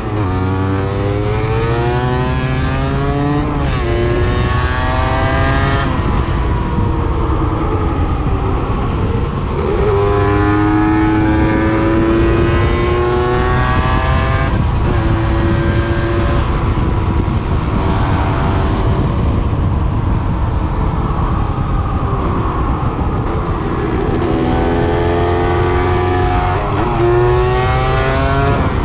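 125 cc enduro motorcycle engine under hard acceleration, the pitch climbing steeply through each gear and dropping at every shift, repeated several times with a steadier stretch around the middle.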